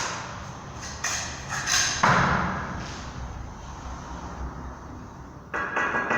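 Several knocks and thuds: a few sharp ones in the first two seconds, a heavier thud about two seconds in that dies away slowly, then a quick cluster of knocks near the end.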